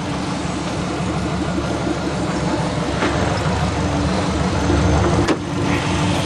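Subaru Legacy's 2.5-litre flat-four boxer engine idling steadily, with one sharp click about five seconds in.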